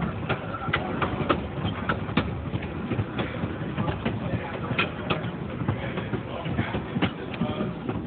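A passenger train car rolling along the track: a steady low rumble from the wheels on the rails, with frequent sharp clicks and rattles, several a second.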